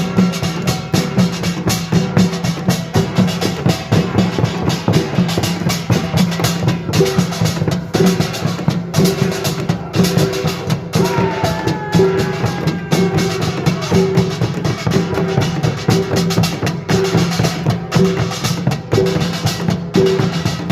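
Korean pungmul percussion ensemble playing: a dense, fast run of drum and gong strikes over a steady low ring.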